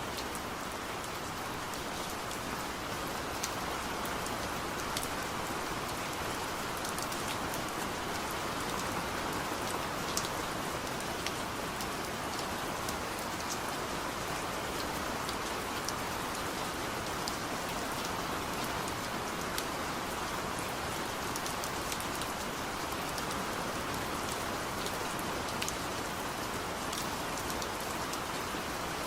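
Heavy rain falling steadily, a dense even patter with many individual drops ticking sharply on top.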